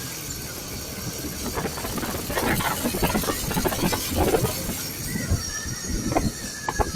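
Motorcycle riding in highway traffic: uneven road and wind noise, with a high whine that slides slowly down in pitch near the end.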